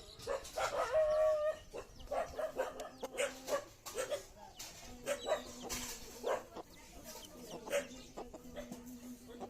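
Chickens clucking in short, repeated calls, with one longer pitched call about a second in.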